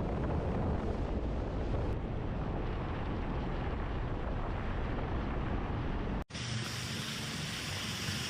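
Wind rumbling and buffeting on the microphone over steady outdoor noise; about six seconds in it cuts abruptly to a thinner, hissier outdoor background.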